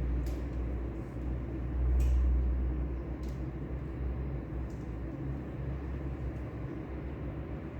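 Steady low rumble with a soft hiss from an ambient rainy-day library soundscape. The rumble swells briefly about two seconds in, and a few faint ticks sound over it.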